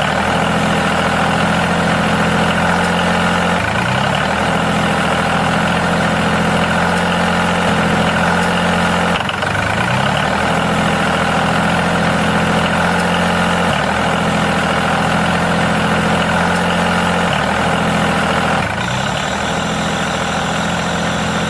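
Engine idling steadily, with brief upward swells in pitch every few seconds.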